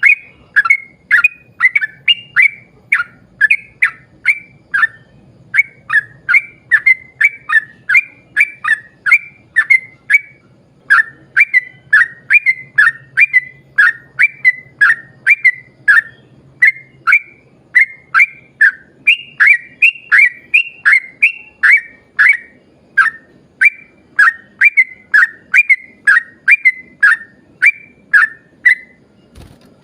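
Yellow-vented bulbul (trucukan) singing a long run of quick, short whistled notes, about three a second, each sliding downward, with brief pauses between bursts.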